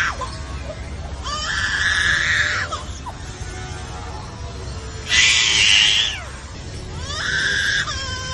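A sound-mimicking bird giving loud, harsh screeching calls, three of them, each lasting about a second, with fainter warbling notes in between.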